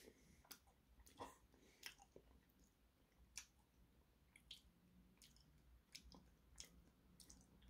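Faint chewing of a soft mouthful of avocado, with irregular small wet mouth clicks and smacks.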